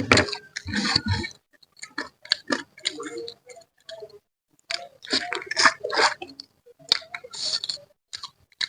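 Close-miked eating of a spicy manyung (giant sea catfish) head: wet mouth clicks, lip smacks and sucking in irregular runs, with a short pause about halfway through.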